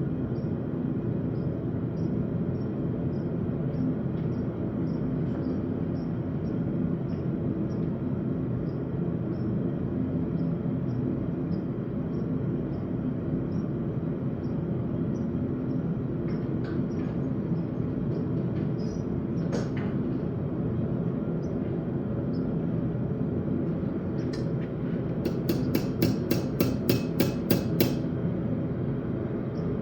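Forging hammer striking steel on an anvil: a single blow about two-thirds of the way in, then a quick run of about ten blows near the end, roughly four a second. A steady low rush runs underneath throughout.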